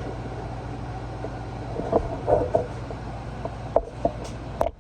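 Steady hum of a room air conditioner, with a few scattered clicks and knocks and a sharper knock near the end.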